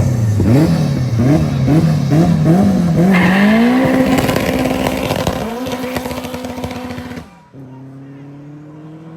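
Race car engine revved in quick repeated blips, about two a second, then rising to a steady higher pitch as it pulls away. About seven seconds in the sound cuts off suddenly, replaced by a fainter engine slowly rising in pitch.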